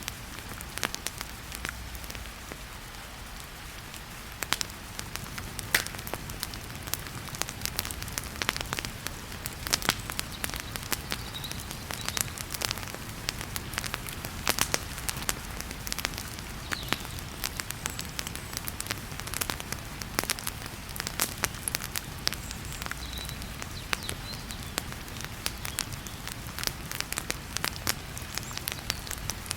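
Wood fire crackling and popping in a fireplace, with frequent sharp snaps over a steady hiss of heavy rain.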